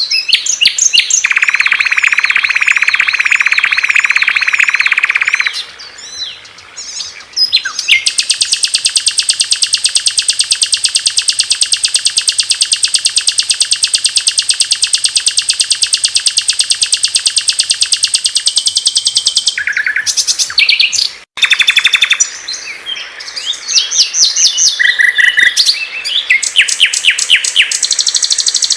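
Small songbirds singing loudly and clearly in a run of rapid chirps and trills, including one very fast, high trill held for about ten seconds, with a brief drop-out about two-thirds of the way through.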